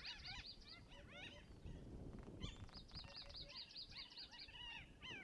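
Faint birdsong from several birds calling together, including runs of quick, high, repeated chirps, one at the start and a longer one about halfway through.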